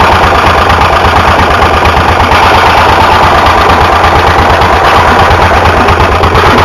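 Stationary engine running steadily and loudly, its exhaust giving a fast, even beat.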